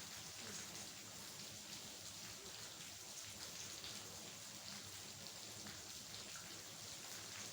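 Steady rain falling, a fine hiss with many small drops pattering on a surface.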